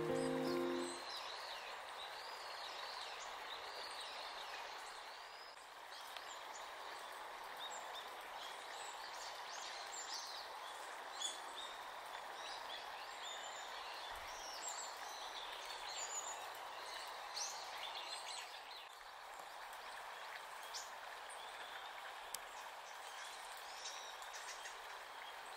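Small birds chirping and calling, many short high calls coming thick and fast, over steady background noise.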